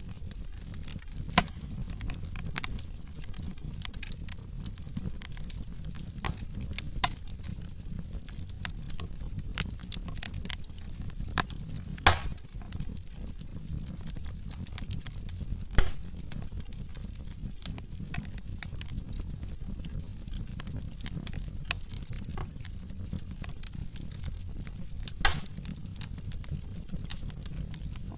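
Wood fire in a fireplace crackling: a steady low rumble of burning logs with frequent sharp pops, the loudest about 12, 16 and 25 seconds in.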